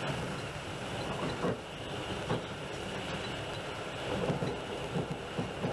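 Passenger train running on the rails, heard from inside the carriage: a steady rumble with scattered knocks and rattles, which come more often near the end.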